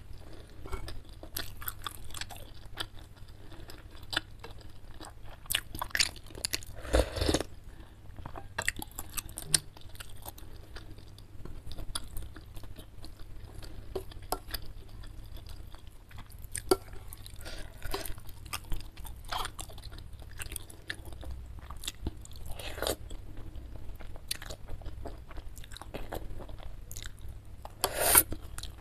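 Close-up eating sounds of spicy chicken noodles and chicken meatballs: chewing and mouth smacks with many irregular short clicks. Two longer, louder noises come about seven seconds in and near the end.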